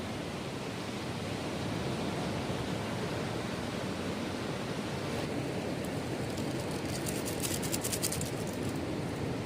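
Steady outdoor noise of wind and surf at a beach, with a brief high crackle of rustling about seven to eight and a half seconds in.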